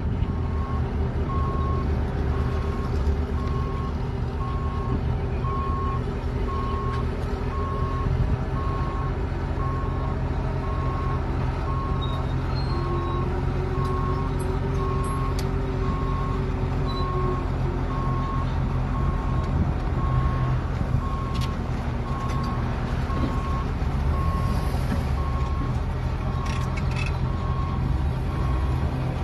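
Heavy diesel equipment engines running, with a backup alarm beeping steadily throughout.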